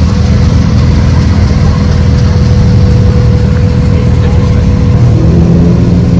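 2017 Ford GT's twin-turbo V6 running steadily at low revs as the car creeps past, with no revving.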